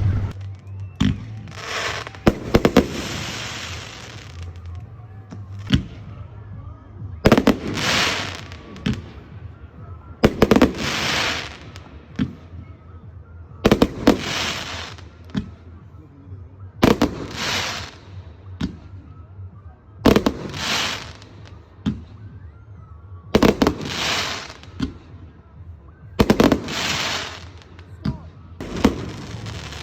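Fireworks going off about every three seconds. Each is a sharp bang followed by about a second of hissing crackle.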